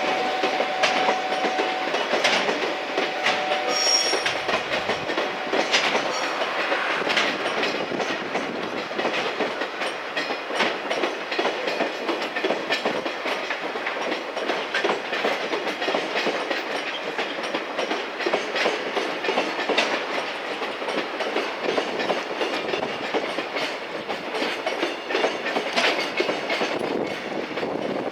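Freight train hauled by an EF210 electric locomotive passing by, its wagons' wheels clattering over the rail joints in a steady, continuous clickety-clack. A brief high squeal comes about four seconds in.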